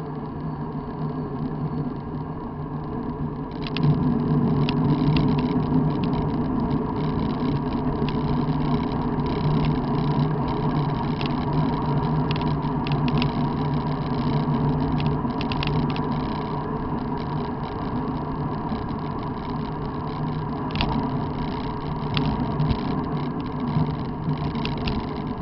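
Steady running noise of a moving vehicle on the road, with a constant hum, getting louder about four seconds in, and scattered clicks and rattles throughout.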